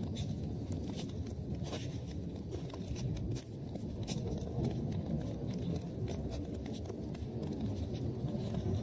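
Wood fire burning in a fireplace: a steady low rush from the flames with frequent sharp crackles and pops from the burning logs.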